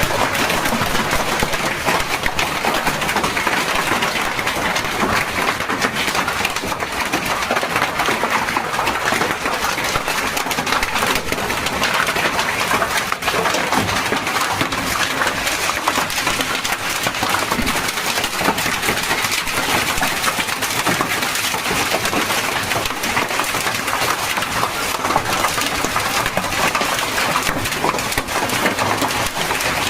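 Hailstorm with heavy rain: a dense, steady hiss of falling rain dotted with many sharp ticks of hailstones striking hard surfaces.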